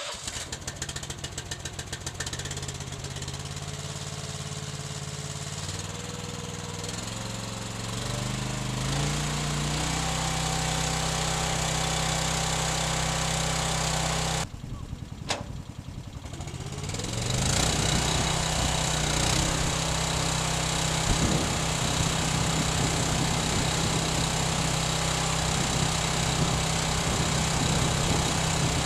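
Engine running to drive the bale wrapper, speeding up in steps, with a short break just under halfway, then running steadily at a higher speed.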